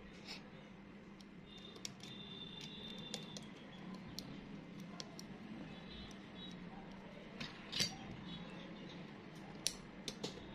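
Faint scattered clicks and ticks of small parts and tools being handled while a smartphone is put back together, the sharpest about eight seconds in and again shortly after. A steady low hum runs underneath.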